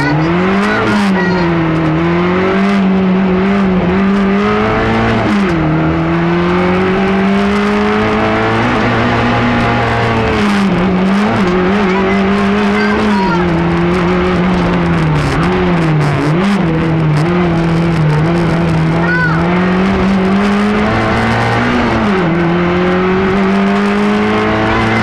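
Fiat Cinquecento Sporting rally car's small four-cylinder engine heard from inside the cabin under hard acceleration: its pitch climbs steadily through each gear and drops sharply at each gear change or lift, several times over.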